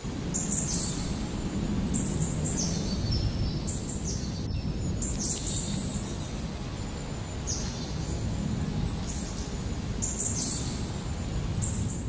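Birds calling, with high short calls that step down in pitch, repeating every second or two over a steady low outdoor rumble.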